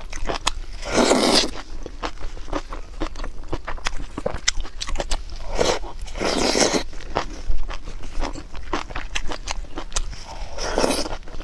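Close-miked eating: wet chewing and crunching with many sharp mouth clicks as spicy octopus and lettuce are eaten by hand. Three longer, noisier rushes come about a second in, around six seconds in and near the end.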